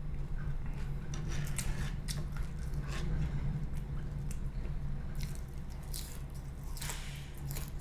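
Close-miked chewing of breakfast food, with wet mouth smacks and crunchy clicks scattered through, over a steady low hum.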